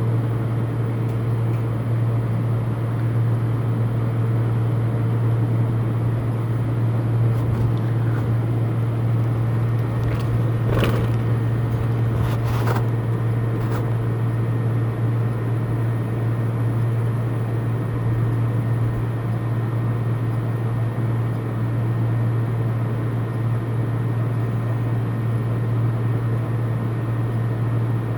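A steady low mechanical hum with an even background noise, and a couple of faint clicks around the middle.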